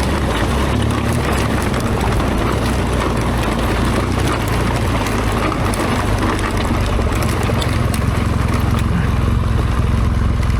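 BMW R1200GS Adventure's boxer-twin engine running steadily while the motorcycle is ridden, with wind noise rushing over the microphone.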